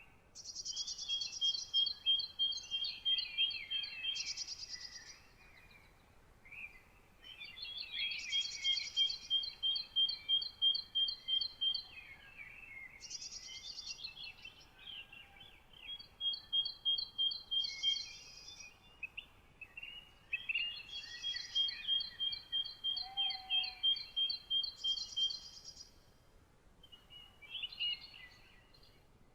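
Songbirds singing at dawn: a high, rapid trilled song of evenly repeated notes comes in phrases of a few seconds, about half a dozen times with short pauses between, over softer twittering from other birds.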